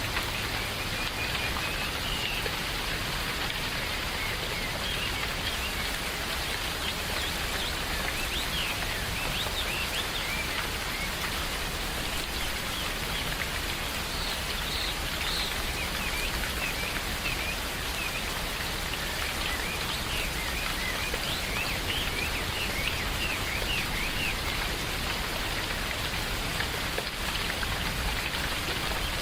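Steady rain falling, with birds chirping on and off throughout.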